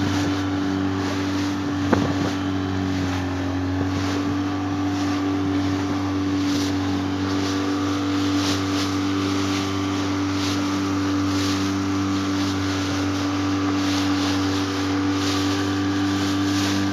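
A boat engine drones steadily under way, with water and wind noise over it. There is one brief knock about two seconds in.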